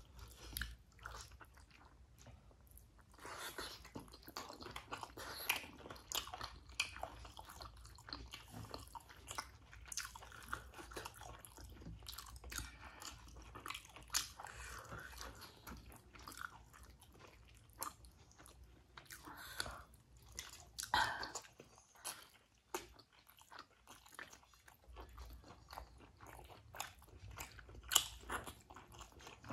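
Chewing and biting of steamed momo dumplings, picked up close: irregular mouth clicks and chews.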